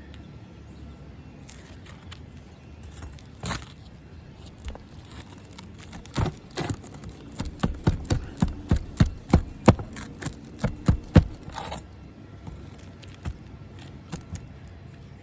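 Roofing tools knocking and scraping at a nail in old asphalt shingles: a single knock, then a quick run of about fifteen sharp knocks, about three a second, as the nail is worked loose from the brittle, sun-aged shingle.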